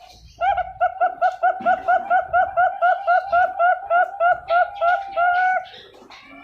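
Young zebra dove (perkutut) chick singing: a rapid run of about twenty short cooing notes, four to five a second, ending in one longer drawn-out note.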